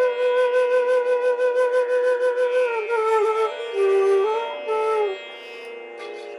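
Flute music: a long held note pulsing about five times a second, then a short melodic phrase of falling and rising notes. It drops to a quieter sustained tone about five seconds in.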